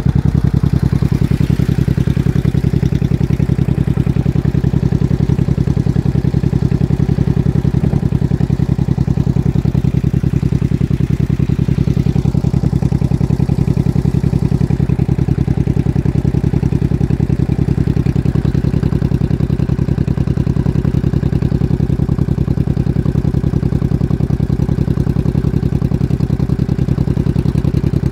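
Honda VT700 bobber's V-twin engine idling steadily, an even rapid exhaust pulse with no revving or gear changes.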